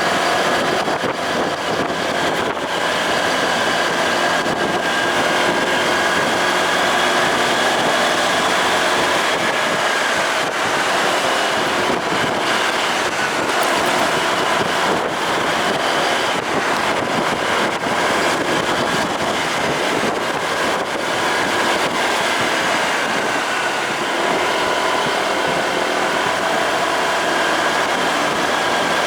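Motorcycle engine running steadily under way, its pitch drifting slightly, with wind noise on the microphone.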